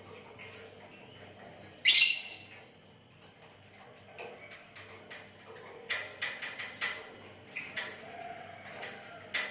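Sooty-headed bulbul (kutilang) calling. A loud, harsh call comes about two seconds in, then a quick run of short, sharp notes later on, and a few more calls near the end.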